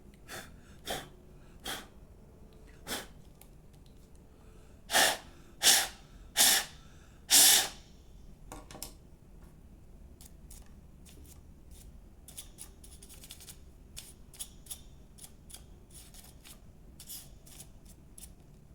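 Hand work on an opened hair dryer: a few small clicks, then four loud puffs of blown air about five seconds in, then a long run of small, quick clicks and snips. This is the work of clearing out hair caught inside.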